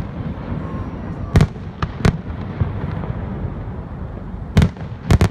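Aerial firework shells bursting: sharp bangs at irregular intervals, with two in quick succession near the end.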